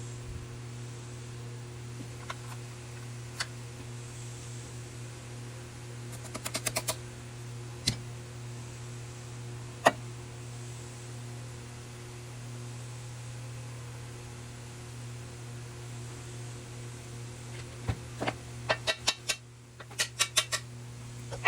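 A steady low hum with sharp clicks and taps scattered over it: single clicks now and then, a quick run of clicks about a third of the way in, and a burst of clicks near the end.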